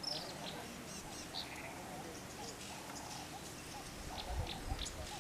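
Wild birds chirping in short, scattered calls over a lower warbling chatter, with a couple of soft knocks about four and a half seconds in.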